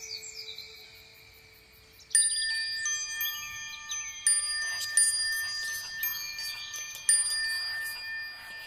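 Wind chimes ringing: clear metallic tones struck several times, starting suddenly about two seconds in after a fading earlier tone.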